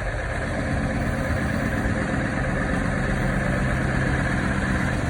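Scania truck's diesel engine running steadily, a low, even hum with no change in pitch.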